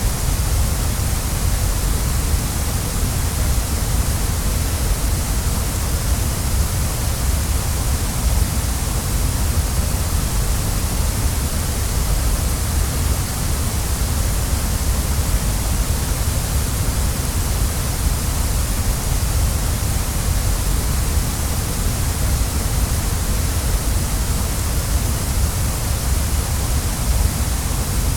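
Waterfall: a steady, unbroken rush of falling water, with a deep rumble and a bright hiss over it.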